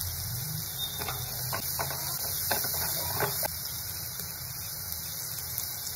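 Diced onion, capsicum, carrot and beans sizzling steadily in oil in a kadai, with a few light clicks in the first half as spices are spooned in.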